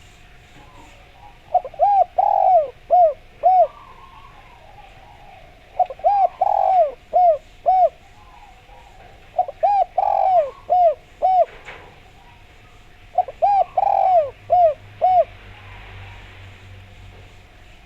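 Spotted dove (derkuku) cooing: four phrases of five or six quick coos each, roughly four seconds apart.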